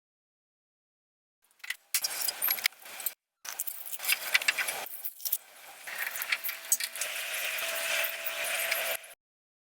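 Small metal parts clinking and rattling in a series of sharp clicks, in edited snippets, with a steadier scraping hiss near the end.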